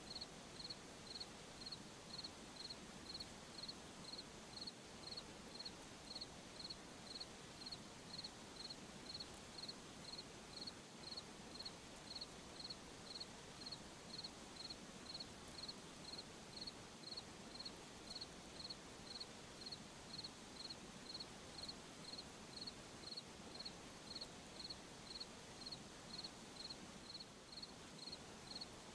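A cricket chirping in an even, unbroken rhythm, about three short high chirps every two seconds, over a faint steady night hiss.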